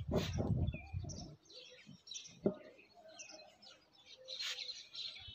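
Small birds chirping in short, repeated calls. There is a muffled low rustle through the first second or so, and a single sharp click about two and a half seconds in.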